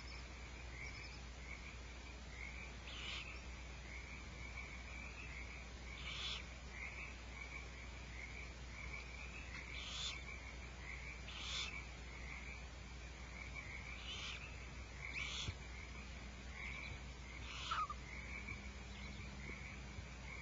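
A chorus of calling frogs: a continuous trilling held at one pitch, with short louder calls standing out every few seconds.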